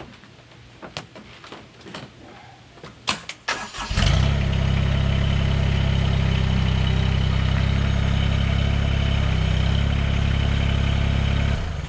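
A few faint knocks, then the diesel engine of a Mahindra eMax 20S HST compact tractor comes in suddenly about four seconds in and runs loud and steady, stopping abruptly shortly before the end.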